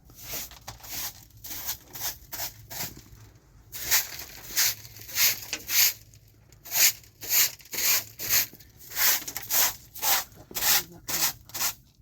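Rhythmic rasping strokes, about two a second, quieter at first and louder from about four seconds in.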